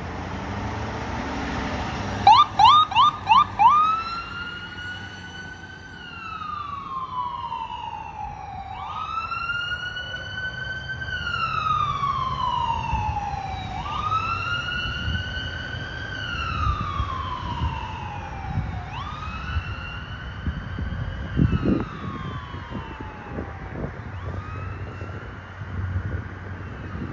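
A fire department emergency vehicle's electronic siren gives a quick run of about five short rising chirps, then settles into a wail that slowly rises and falls about every five seconds, growing fainter near the end.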